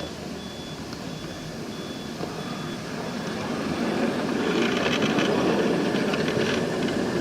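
A miniature railway train running, its sound growing louder from about halfway through as it draws near. A faint, evenly repeated high beep sounds through the first half.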